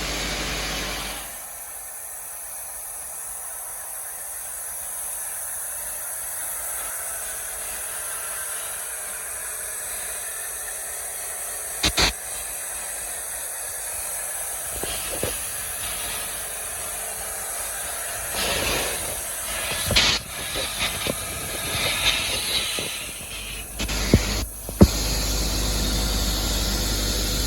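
Dry abrasive blasting with crushed glass: a steady hiss from the blast nozzle, with a few sharp knocks. The last ten seconds are louder and more uneven.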